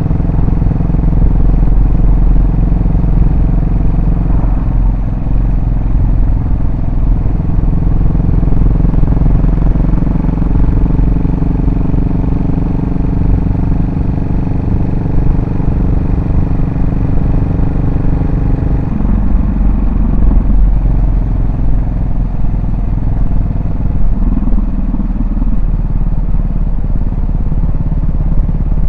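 Yamaha SR400's air-cooled single-cylinder four-stroke engine and exhaust running on the road with a steady, even note, which changes about two-thirds of the way through as the revs shift.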